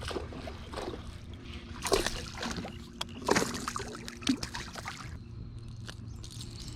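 Water splashing and sloshing at the side of a kayak, with a few sharp splashes, the loudest about two seconds in and another just after three seconds, as a freshly hooked largemouth bass is brought in.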